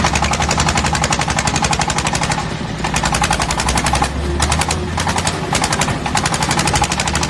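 Tractor engine running with a rapid, even clatter, which eases briefly twice.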